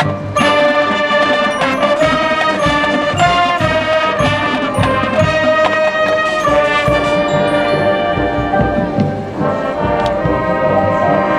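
Marching band playing: brass section sounding sustained chords over drumline strokes.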